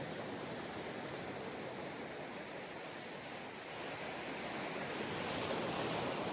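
Ocean waves washing onto a sandy beach: a steady wash of surf, with a wave breaking and running up the shore, louder and brighter, from a little over halfway through.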